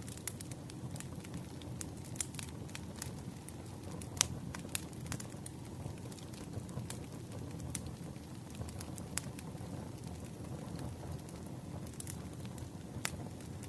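Campfire crackling: burning wood gives irregular sharp pops and snaps over a low, steady rumble of flames.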